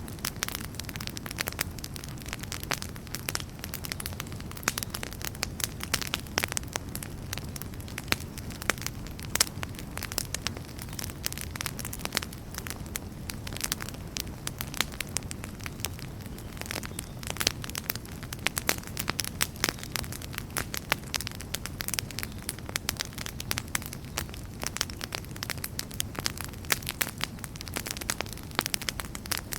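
Wood campfire burning steadily with dense, irregular crackles and pops over a low, steady rush of flame.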